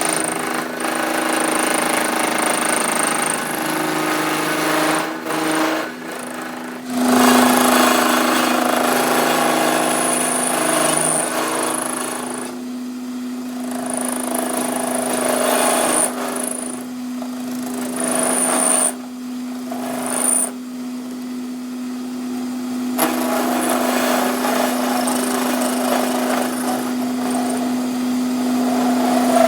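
Workshop power tool running in spells over a steady motor hum, its noise cutting out and starting again several times, with a faint high whine that comes and goes.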